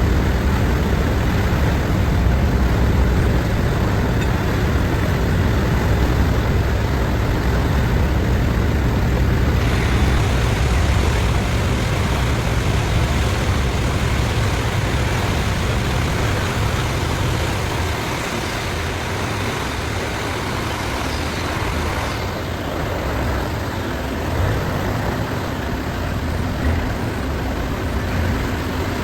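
Steady low rumble and rushing noise of a river cruise boat under way. The deep rumble eases a little past the halfway point.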